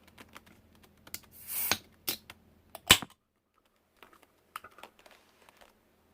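A run of light clicks and taps from eating utensils and containers being handled, with a short hiss about a second and a half in and one sharp, louder click just before three seconds.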